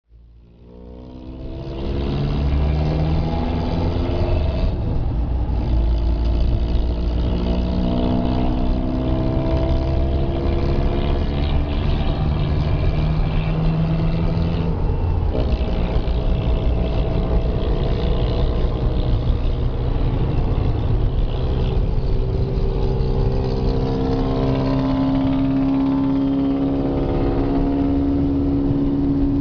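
Monster truck engine running and revving, its pitch slowly rising and falling, fading in over the first two seconds.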